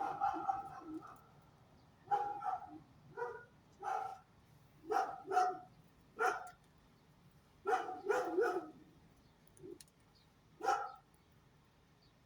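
A dog barking: about a dozen short barks at an uneven pace, some in quick pairs, stopping about a second before the end.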